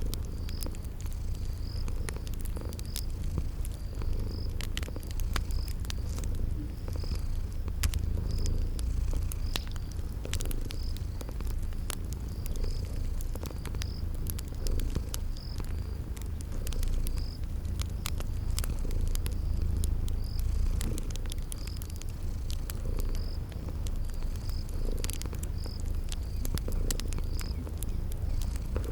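A cat purring steadily, the loudest sound, layered with the crackle and pops of a wood fire and a cricket chirping about once a second.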